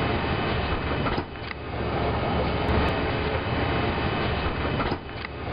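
Sandstorm wind rushing against the building, a steady low rumbling noise that eases briefly about a second in and again near the end.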